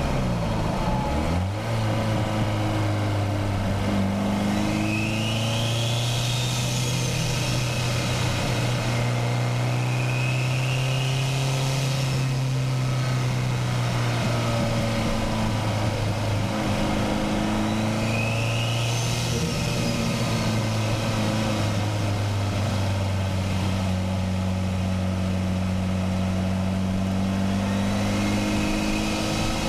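Turbocharged Nissan SR20DET inline-four in a Mazda Miata, driven hard along a twisting road. The revs rise and drop with throttle and gear changes, and a faint high whistle rises several times as it pulls.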